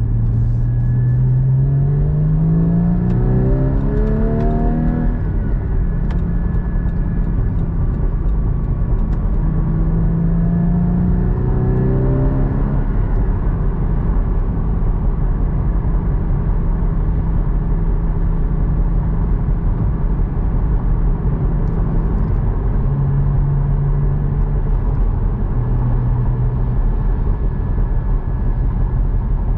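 Porsche Cayman GT4's 3.8-litre flat-six engine heard from inside the cabin while accelerating: the engine note climbs in pitch for a few seconds, drops at a gear change about five seconds in, climbs again, then settles into a steady cruising drone. Tyre and road noise run underneath throughout.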